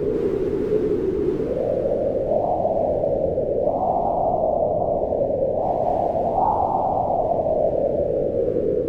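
Howling wind: a steady rushing noise with a hollow, moaning tone whose pitch swells up and sinks back in slow gusts, rising highest about halfway through.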